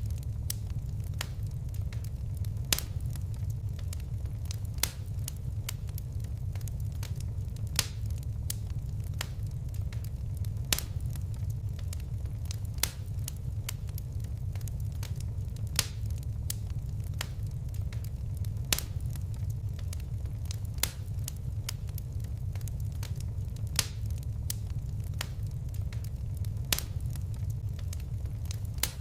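Wood fire crackling: sharp pops and snaps, a few louder ones every two or three seconds, over a steady low rumble of flames.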